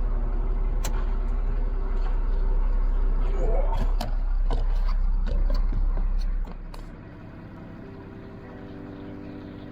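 A steady low rumble with scattered clicks and knocks cuts off abruptly about six and a half seconds in. Quieter background music with held notes follows.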